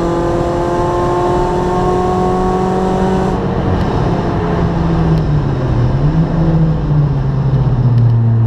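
A race car's engine, heard from inside its cabin, running hard with the revs climbing slowly. About three seconds in the throttle eases off and the revs fall, with a brief rise partway through. Near the end the revs start to climb again.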